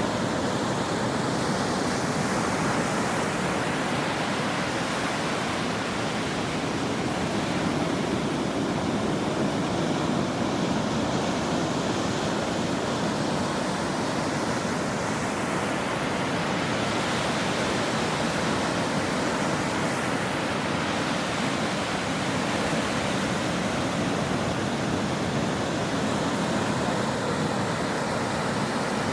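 Ocean waves breaking on a shore: a constant dense wash of surf that swells and eases gently every few seconds.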